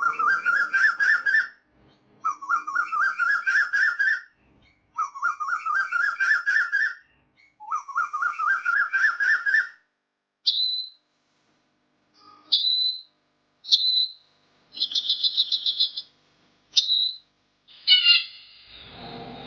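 Bird song: four phrases of quickly repeated whistled notes, each about two seconds long and rising in pitch, followed by a series of short high chirps and a brief trill.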